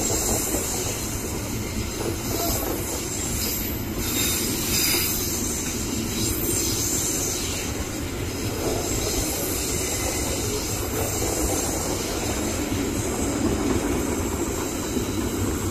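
Passenger train rolling slowly past on the rails, its wheels squealing at times over a steady rumble, with some clicking over rail joints.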